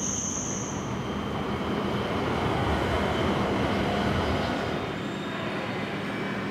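W7 series Shinkansen train pulling slowly into a station track, its running noise building to a peak about halfway through and then easing off. A brief high squeal comes right at the start.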